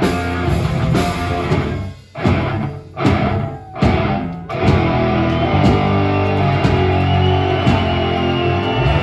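Live heavy rock band playing with electric guitars and drums. Between about two and four and a half seconds in, the band cuts out and hits again in a few short stop-start breaks, then plays on steadily.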